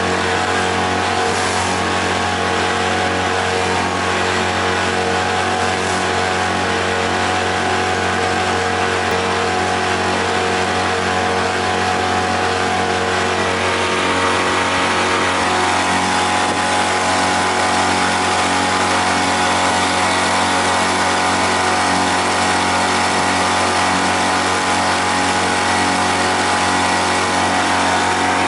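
Freshly overhauled outboard motor running steadily at cruising speed, over a steady rushing hiss of the boat under way.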